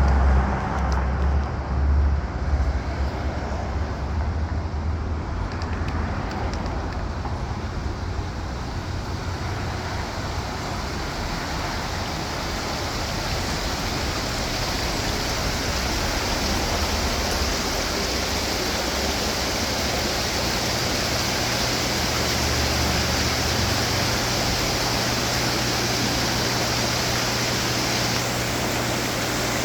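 Steady rushing splash of running garden water fountains, growing fuller and brighter from about a third of the way in. A loud low rumble sits under it for the first few seconds.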